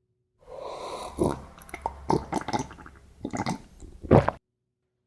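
Small toy pieces being handled: rustling with a run of clicks and knocks, the loudest about four seconds in.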